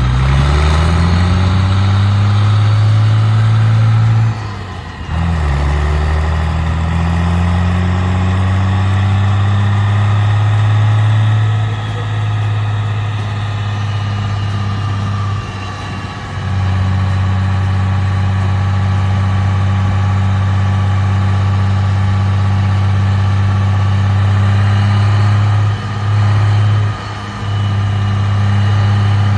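A truck engine running loud. Its note rises twice in the first several seconds, with a short break between, then holds steady with a couple of brief dips.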